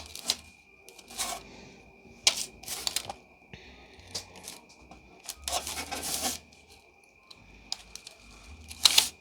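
A scalpel cutting and scraping fondant away from a dried edible image, giving scattered light clicks and short scrapes, with a longer scrape about halfway through.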